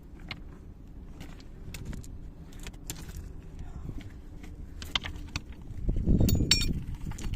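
Wind buffeting the microphone with an uneven low rumble that swells near the end. Scattered small clicks and knocks come through it, and a brief metallic jingle sounds about six seconds in.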